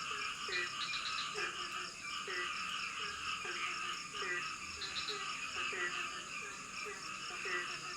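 Rainforest frogs croaking: one frog repeats a short call about once a second over a dense, steady chorus of higher-pitched frog and insect calls.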